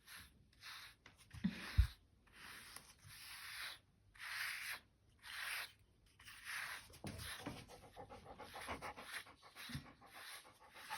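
Labrador breathing heavily in slow, hissing breaths that quicken into faster panting about halfway through, with one short thump near the start.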